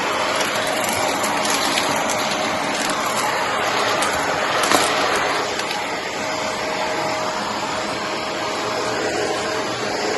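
Green Shark vacuum cleaner running steadily, vacuuming up cardboard bits: an even rush of air with a steady whine and a few sharp clicks, the loudest about halfway through.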